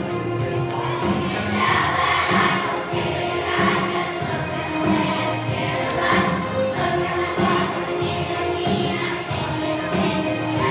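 Children's choir singing with an accompaniment that has a steady beat.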